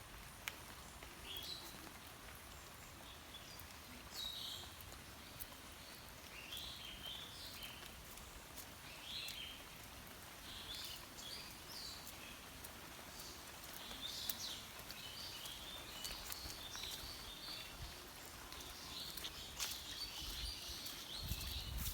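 Small birds chirping in short, repeated calls, busier in the second half, over a faint steady hiss of light rain with occasional sharp drip ticks.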